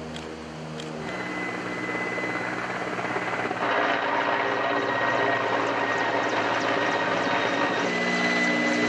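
Aircraft engine drone swelling louder about a second in and again around four seconds in, with a steady high whine.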